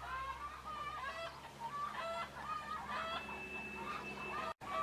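Chickens clucking in a string of short calls, with a rooster's crow held for about a second and a half near the end, over a steady low hum.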